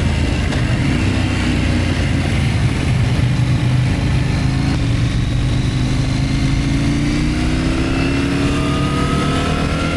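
Motorcycle engine running under way, pulling steadily, its pitch rising through the second half as it accelerates.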